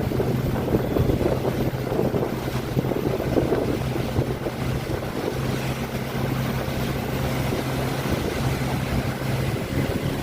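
Motorboat's engine running at a steady hum, with water rushing past the hull and wind buffeting the microphone.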